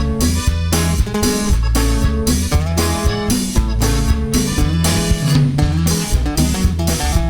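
Instrumental break of a cumbia song: a lead guitar over a pulsing bass line and a steady drum beat.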